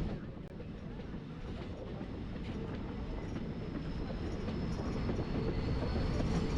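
Train running on the rails: a steady low rumble that grows gradually louder, with faint clicks from the wheels.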